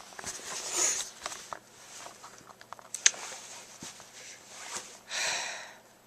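A homemade grinder made from Pringles cans being twisted by hand: cardboard tubes and nails rasping against each other, with scattered clicks. A sharp click comes about three seconds in, and a louder rasping scrape about five seconds in.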